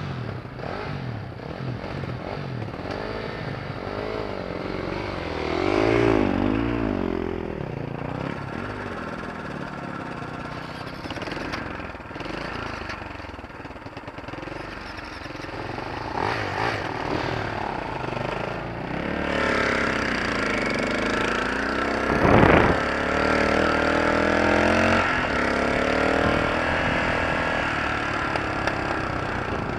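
Vehicle engine running, its pitch rising and falling as it revs up and down, with one loud sharp bang about two-thirds of the way through.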